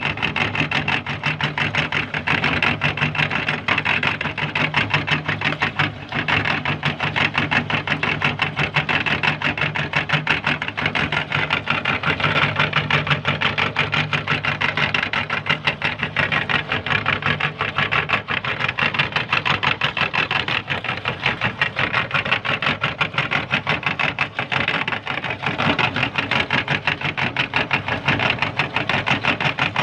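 Meat grinder running steadily as it grinds green chillies, with a rapid, even mechanical rhythm and a low hum that fades out about halfway through.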